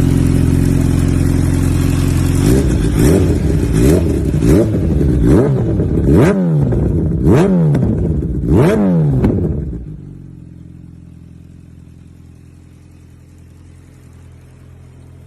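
Kawasaki Z H2 SE's supercharged inline-four idling, then revved in about seven quick throttle blips that each climb and fall in pitch. About ten seconds in it drops to a much quieter steady hum.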